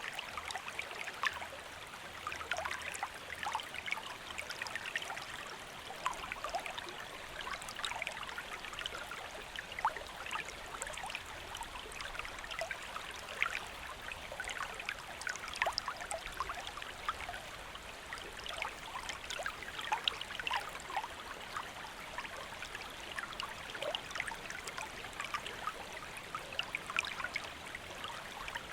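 A gently flowing stream, water running and trickling steadily over rocks, with many small splashes and drips.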